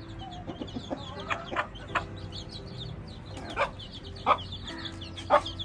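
Hens clucking, with a short sharp cluck every second or so over a low murmur, and many young chicks peeping high and fast throughout.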